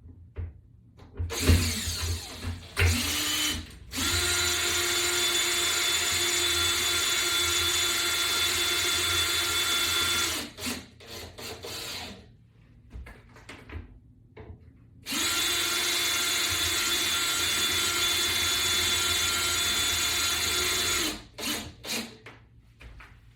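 Power drill driving long screws into a wall-mount board: a few short starting bursts, then two long steady runs of about six seconds each, separated by a pause.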